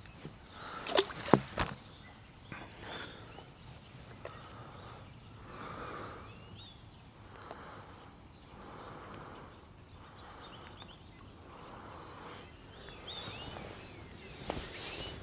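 Small birds chirping, short thin high calls scattered throughout over soft outdoor background noise. A few sharp clicks about a second in are the loudest sounds.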